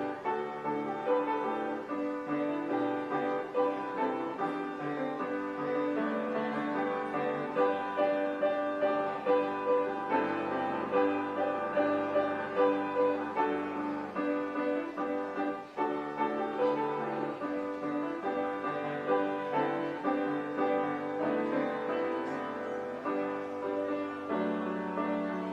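Slow instrumental piano music with held chords and a melody of separate notes.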